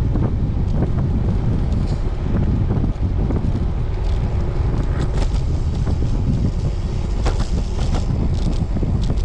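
Wind buffeting the microphone of a cyclist riding a road bike, making a steady low rumble. A few faint clicks sound through it.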